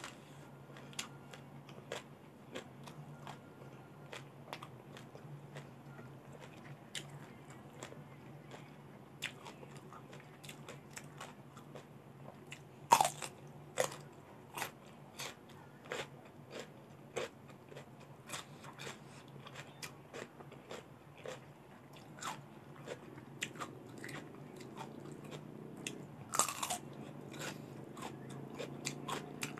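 Crisp bites and chewing of a crunchy raw vegetable, close to the microphone: many small crunches throughout, with two loud bites, one about halfway through and one near the end. A faint steady low hum sits underneath.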